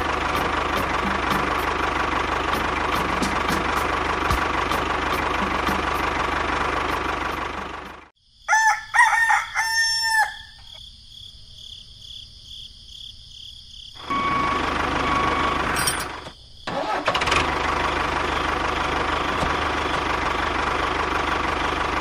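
A model tractor's small motor running steadily. It breaks off about eight seconds in, when a rooster crows loudly. The motor sound comes back for the last few seconds.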